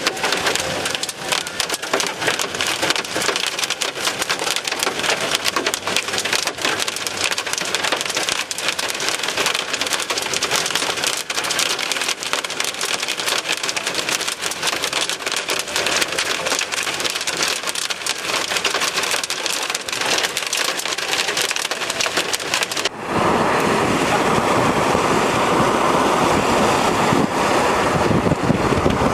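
Heavy rain pelting a vehicle as a dense patter of countless drop impacts. About 23 seconds in, it changes abruptly to a steadier, louder rushing noise.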